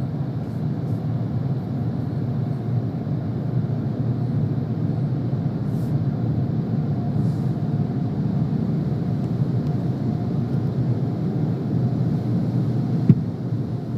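Steady low rumble of a car heard from inside its cabin as it creeps slowly into a car wash, with one sharp click about a second before the end.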